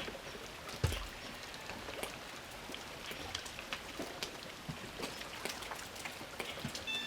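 Water drops pattering irregularly, scattered sharp little drips with one heavier knock about a second in.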